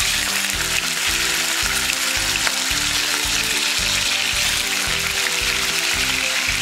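Chicken pieces frying in hot vegetable oil in a pan: a sizzle that starts suddenly as they drop in, then holds steady. Background music with a steady beat plays underneath.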